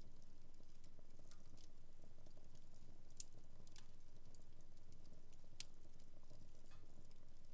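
Wood fire in a fireplace crackling: scattered sharp pops and snaps over a steady low rumble of the flames, with the loudest pops about three and five and a half seconds in.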